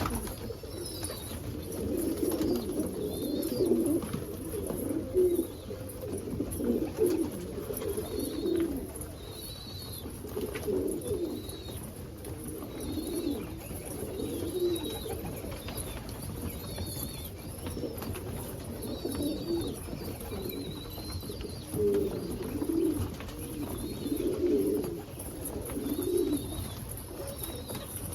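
Homing pigeons cooing again and again, overlapping low coos from several birds, with faint short high chirps among them and a steady low hum underneath.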